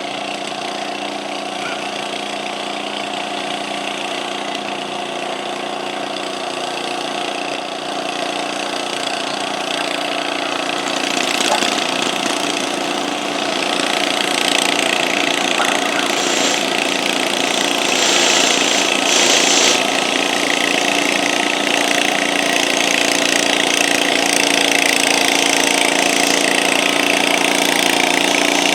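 Stock garden tractor's small engine running at a steady pitch under load, pulling a weighted stoneboat in an 800-lb kids' class. It grows louder from about ten seconds in.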